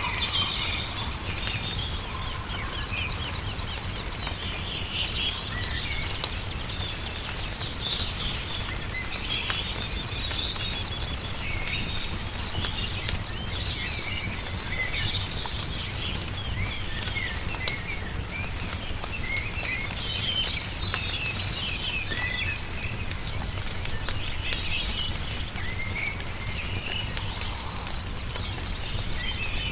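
Wood fire crackling with scattered sharp pops, two of them louder, while songbirds chirp in short, frequent bursts over a steady low rumble of outdoor ambience.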